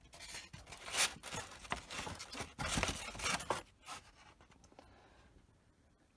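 Foam fuselage halves of a model aircraft being pulled apart along the glued seam: the old, brittle epoxy bond crackles and tears in a quick run of snaps and scrapes, dying away after about four seconds.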